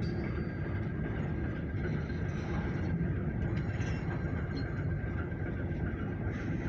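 Freight train on the rails, a steady low rumble with a faint high steady tone over it.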